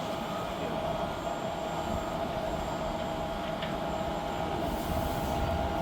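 Wind buffeting the microphone in low, uneven gusts over a steady droning hum.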